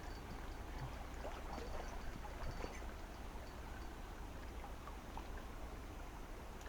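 Small mountain stream flowing, a steady water rush with faint scattered clicks.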